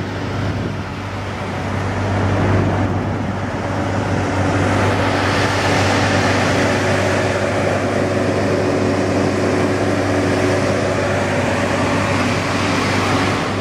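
Nissan GT-R's twin-turbocharged 3.8-litre V6 idling steadily, with a steady rushing noise that grows louder about two seconds in.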